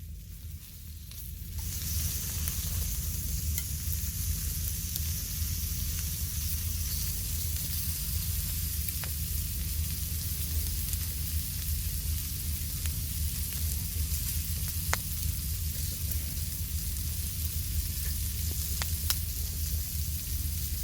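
Food sizzling in a pan over a campfire: a steady frying hiss that swells up about a second and a half in, with occasional sharp pops. A steady low rumble runs underneath.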